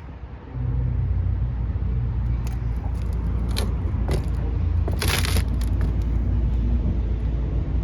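Steady low vehicle rumble, with scattered knocks and a brief noisy burst about five seconds in.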